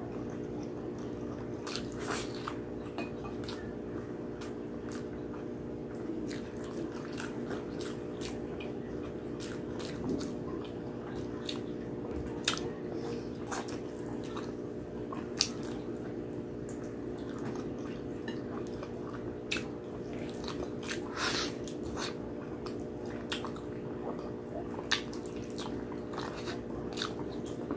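Close-miked wet chewing, biting and lip-smacking on braised pork hock eaten by hand, with irregular sharp mouth clicks and smacks. A steady low hum runs underneath.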